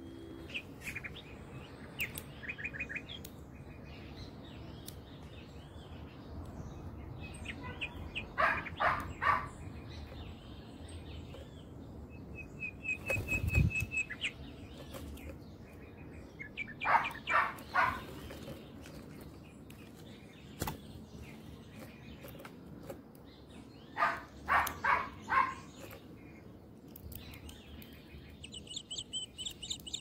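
Birds calling at a seed-filled feeder: loud bursts of three or four harsh notes come three times, with softer chirps and wing flutters between and a quick high twittering near the end.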